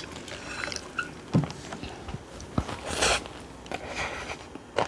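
Close-up eating sounds from bibimbap and stew: chewing and biting with scattered sharp clicks, and a short breathy rush of noise about three seconds in.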